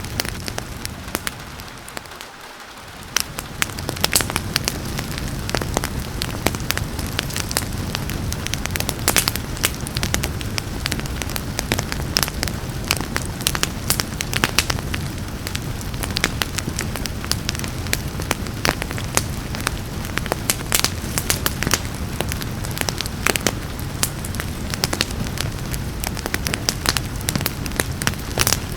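Wood fire crackling and popping with many sharp snaps over a steady rain hiss. The sound dips briefly about two seconds in, then comes back at full level.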